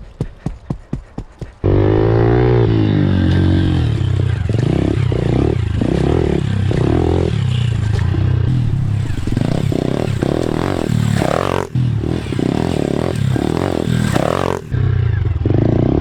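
A quick run of sharp knocks, about five a second, then a pit bike engine cuts in loud and is ridden hard, its revs rising and falling over and over with the throttle.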